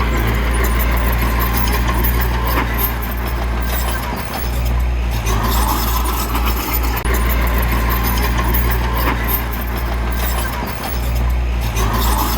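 Heavy diesel earthmoving machine engine running steadily as a continuous deep drone, dipping briefly twice.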